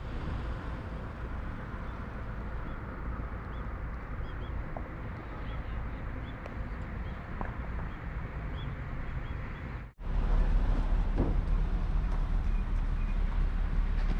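Outdoor background noise with faint, repeated bird chirps. After a cut about ten seconds in, a louder, steady low rumble takes over.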